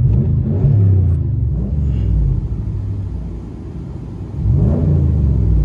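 Ram 1500's 5.7-litre Hemi V8 through an aftermarket exhaust, revved in three throttle blips that rise and fall over a steady low idle rumble.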